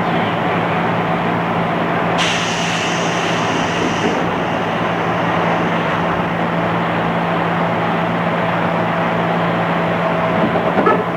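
JR East 211 series electric train running, heard from inside the car: a steady rumble of wheels and motors with a constant low hum. About two seconds in, a high hiss joins for about two seconds.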